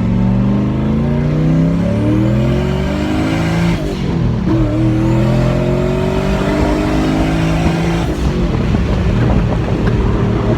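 An LS V8 engine in a swapped Lexus SC300 accelerating hard under load. The revs climb, drop at an upshift about four seconds in, and climb again. About eight seconds in the engine note turns to a rougher roar.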